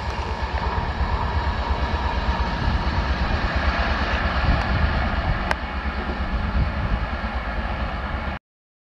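An express train's LHB passenger coaches running away along the track, a steady rumble of wheels on rail with a deep low-pitched roar underneath. The sound cuts off suddenly near the end.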